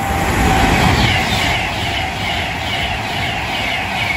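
Avanti West Coast Class 390 Pendolino electric train passing through the station at speed. The rush of wheels on rail builds over the first second and then holds, with a repeating pattern about twice a second as the carriages go by.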